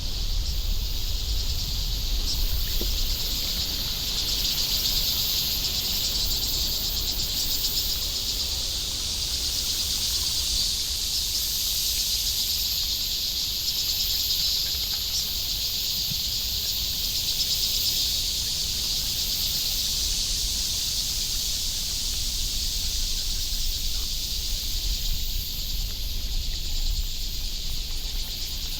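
Steady, high-pitched chorus of insects in the trees, unbroken throughout, over a low rumble.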